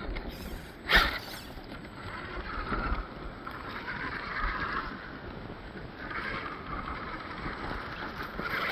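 Electric motor and geartrain of a Vanquish H10 Optic RC rock crawler whining in two stretches of driving, with a sharp knock about a second in.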